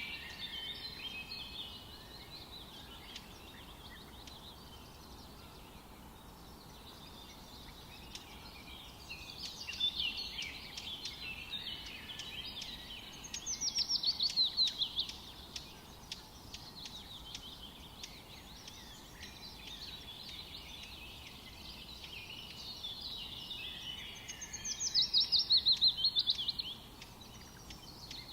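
Songbirds singing over a steady forest hiss. Two of the songs, near the middle and near the end, are the loudest: each a fast run of sharply falling notes lasting a couple of seconds, with quieter chirping phrases in between.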